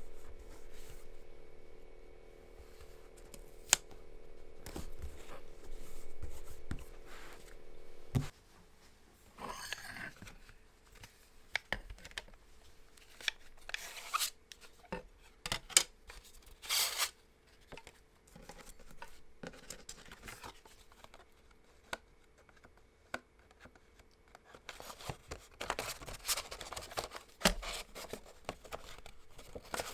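Close-up handling sounds: irregular sharp clicks, snips and short rustling, scraping bursts. A steady low hum runs under them and stops about eight seconds in.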